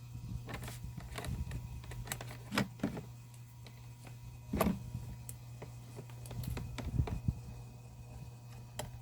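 Scattered clicks and light knocks of small hard objects being handled, over a steady low hum.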